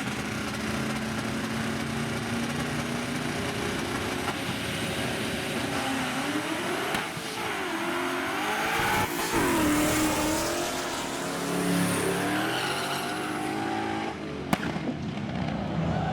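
Race trucks' engines running hard at a drag strip, the pitch rising and falling several times as they rev and pass. A single sharp click comes near the end.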